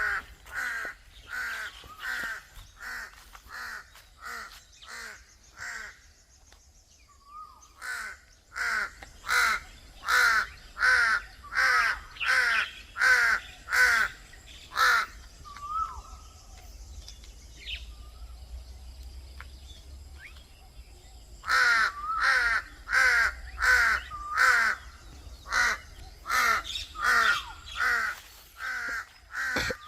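A bird calling in long runs of loud, harsh repeated notes, about two a second, broken by two pauses; a few short rising whistles sound in the gaps.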